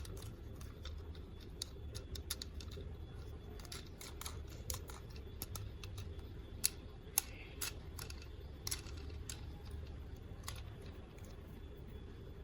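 Scattered light clicks and taps from plastic toys and packaging being handled during an unboxing, a few sharper clicks in the middle, over a low steady hum.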